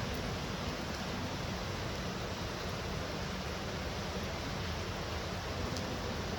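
Heavy rain falling steadily, an even wash of noise with no breaks.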